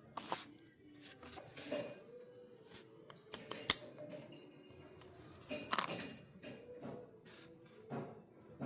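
Small metal repair tools clicking, clinking and scraping irregularly against a phone's glass and hard parts, with one sharp click about three and a half seconds in.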